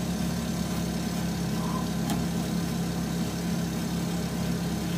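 A car engine idling with a steady low hum, and a faint click about two seconds in.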